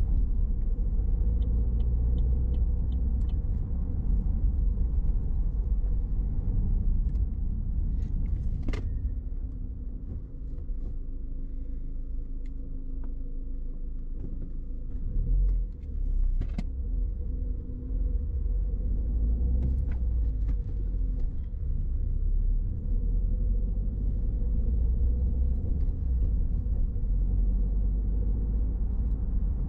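A car being driven, with a steady low rumble from the road and engine. It eases off for a few seconds about ten seconds in, then picks up again, with a few faint clicks and knocks.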